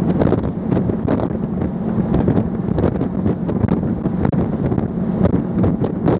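Wind buffeting the microphone aboard a cross-Channel car ferry, over a steady low drone from the ship.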